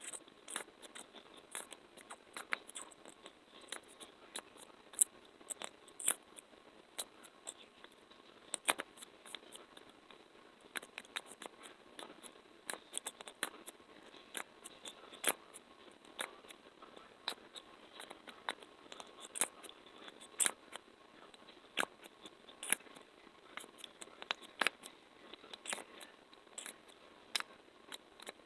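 ASMR sticky and tapping sounds: a quick, irregular run of sharp little clicks and taps, several a second.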